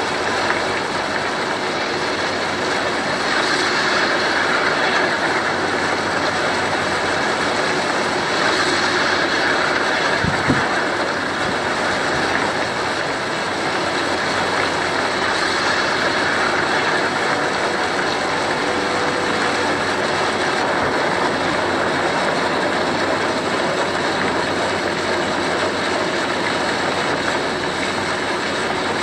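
Steady rushing noise of a storm, wind and rain, swelling now and then in gusts, with a single knock about ten seconds in.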